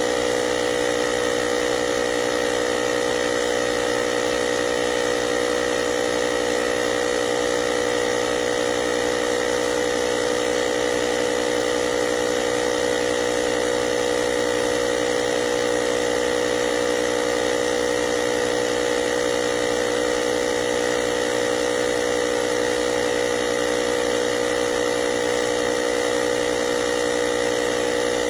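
Cordless portable air compressor (tyre inflator) running with a steady, unchanging motor hum.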